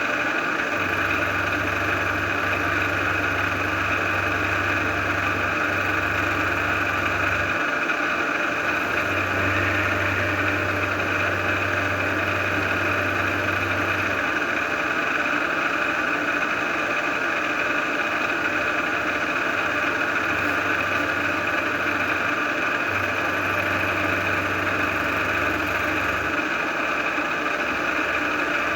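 A machine running steadily, with a low hum that cuts in and out three times.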